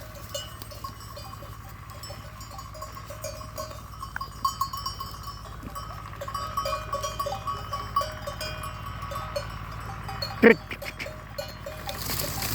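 Bells on a flock of sheep clinking irregularly as the sheep move and feed, with one short, loud sound about ten seconds in.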